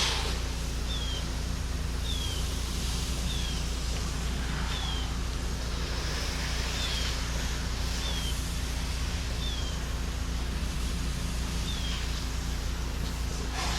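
Gas-engine pressure washer running steadily, its low engine hum under the even hiss of the water spray. Short, high, falling chirps repeat every second or so over it.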